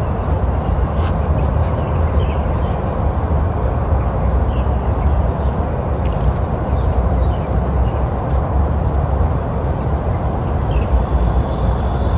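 Steady low outdoor rumble with faint, short bird chirps here and there above it.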